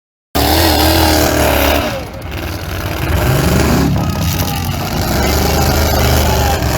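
Demolition derby car engines running loud and revving, the pitch rising and falling as the cars drive and rev in the arena. The sound cuts in abruptly a moment after the start.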